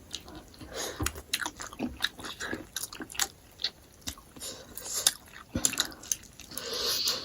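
Close-up eating sounds: food being bitten and chewed, with irregular wet mouth clicks and smacks.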